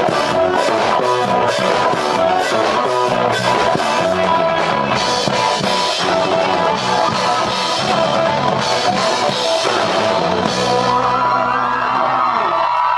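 Live rock band of drum kit, electric guitar, bass and synthesizer playing the closing bars of a song. The drumming stops about ten seconds in and the held chords ring on.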